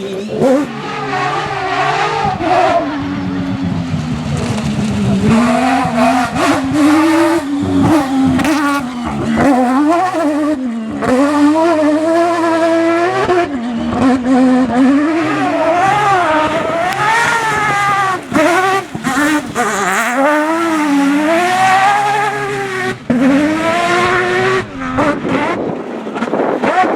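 Mazda rotary engine of a 205-based rally prototype revving hard, its pitch climbing and dropping again and again as it shifts gear and lifts off, with several sudden breaks in the sound.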